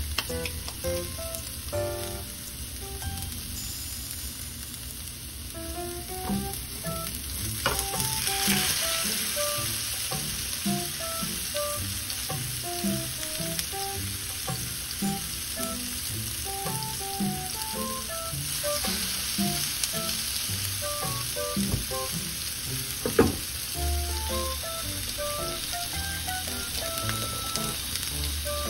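Raw hamburger steak patties sizzling in hot oil in a nonstick frying pan. The sizzle grows louder twice, about 8 and 19 seconds in, as more patties go into the pan, and there is one sharp knock near the end.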